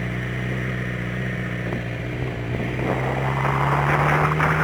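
Suzuki GSX-R600 inline-four engine running steadily while riding, with wind rush that grows louder about three seconds in.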